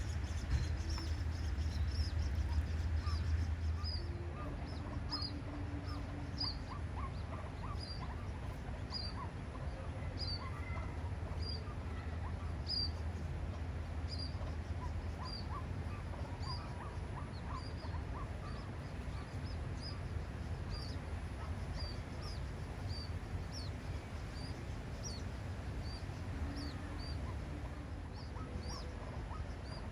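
A bird calling over and over, a short high note about once a second, with fainter lower calls in between. Under it runs a steady low rumble that is strongest in the first few seconds.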